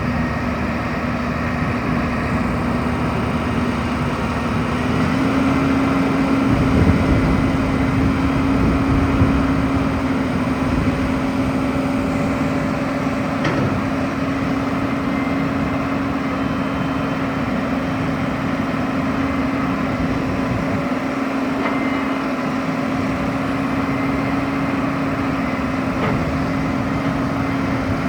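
Diesel engine of a 2004 Gradall XL4100 II wheel excavator running steadily, its pitch stepping up slightly about five seconds in.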